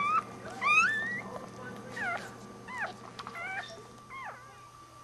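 Newborn Shih Tzu puppies crying in a string of short, high, meow-like squeals that rise and then fall in pitch, growing fainter toward the end.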